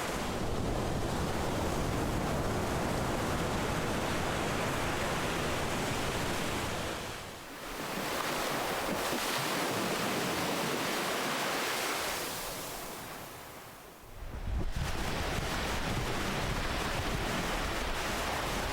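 Ocean surf breaking on a shore: a continuous wash of waves that eases briefly about seven seconds in, builds again, fades away toward fourteen seconds, then surges back as the next wave breaks.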